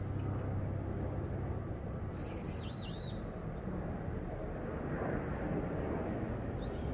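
Bird calls over steady background noise: a short cluster of high chirps about two seconds in, and another near the end.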